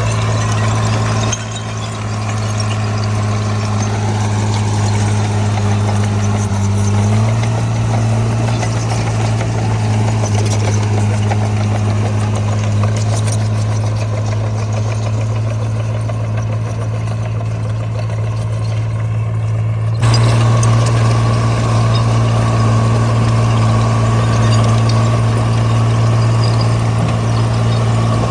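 Caterpillar D3C bulldozer's diesel engine running steadily with a strong low hum. Its pitch rises slightly about seven seconds in, and the sound changes abruptly about a second in and again near twenty seconds.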